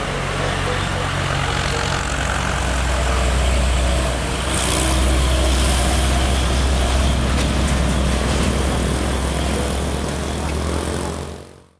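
Heavy diesel truck engine labouring steadily at low revs, with a brief hiss about four and a half seconds in; the sound fades out near the end.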